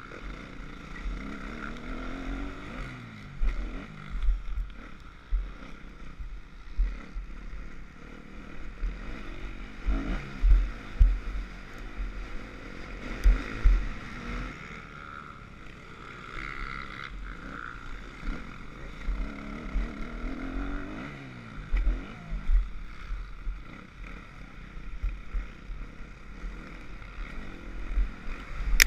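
Kawasaki supermoto race bike's engine heard from the rider's helmet camera, revving hard and falling back again and again as it accelerates, shifts and brakes. Low thumps of wind buffeting the microphone run throughout.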